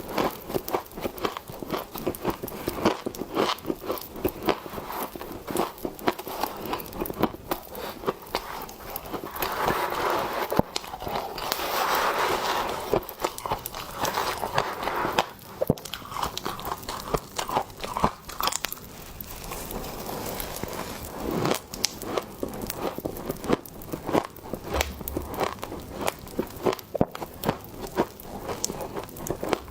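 Biting and chewing mouthfuls of soft, powdery freezer frost: a dense, irregular run of crisp crunches and crackles, with a louder, thicker stretch of chewing in the middle.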